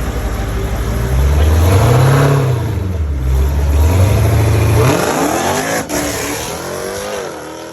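A car engine revving hard under acceleration, loudest in the first half. About five seconds in, its pitch falls and the sound fades.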